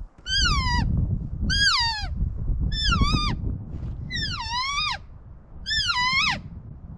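Phelps acrylic elk cow call blown five times in a row, each a descending cow mew that slides from high to low and lifts slightly at the end, imitating a cow elk. A low rumble runs underneath.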